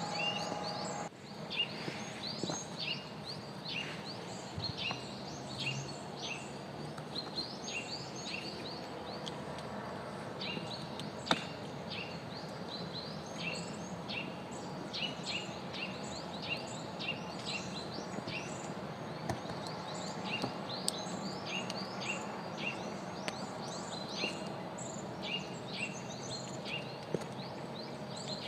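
Small songbirds chirping busily, many short high calls that slide downward in pitch, repeated over and over, with a steady hiss of outdoor ambience beneath. One sharp click about eleven seconds in.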